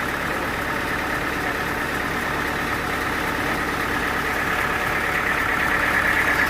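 Sawmill machinery running steadily, an engine-like drone with a high whine that grows louder near the end.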